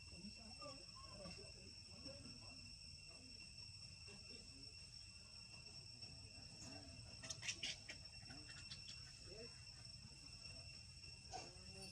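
Faint steady insect chorus, a continuous high trilling drone, with a quick cluster of short high chirps about seven and a half seconds in.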